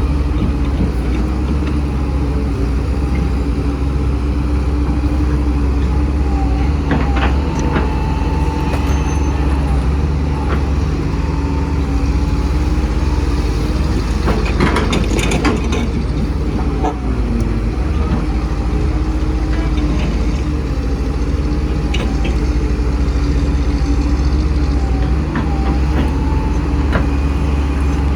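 Heavy diesel engines of excavators and dump trucks running steadily at a dig site. There is a burst of knocks and rattles about halfway through.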